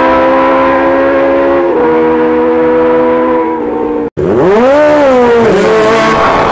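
Drag-racing motorcycle engines running hard at high revs down the strip, holding a steady pitch with a step down about two seconds in. After an abrupt cut about four seconds in, a drag bike's engine is revved up and back down at the start line.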